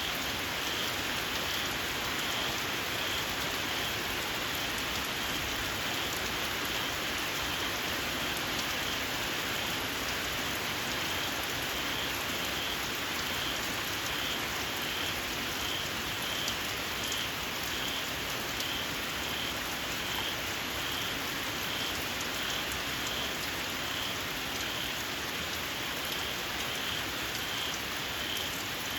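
Steady rain falling, with a small frog calling throughout in a shrill, high chirp repeated a little more than once a second.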